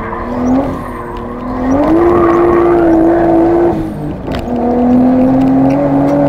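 Turbocharged RB25 straight-six of an R32 Nissan Skyline, heard from inside the cabin under load. The engine climbs in pitch about two seconds in and holds. Around four seconds it dips briefly to a lower pitch as the gear is changed up, then climbs again.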